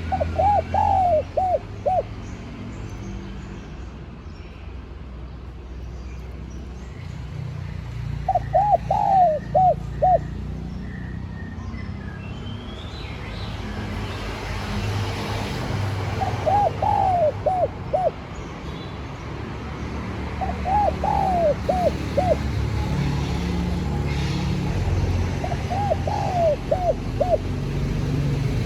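Spotted dove cooing: five phrases, each a quick run of a few curving coos lasting under two seconds, repeating every four to eight seconds. A steady low rumble runs underneath.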